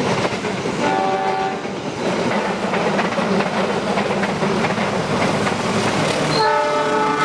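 Passenger carriages rushing past close by with loud wheel-on-rail noise, as two trains pass each other on double track. A diesel locomotive's horn sounds briefly about a second in and again near the end in a longer blast.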